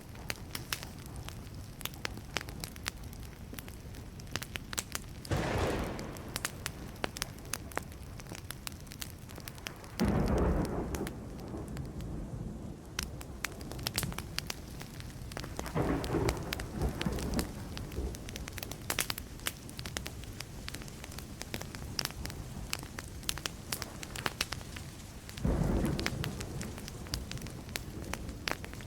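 Wood fire crackling, with many sharp pops and snaps over a steady hiss. Four short, low rumbles of thunder swell up and fade about five seconds apart.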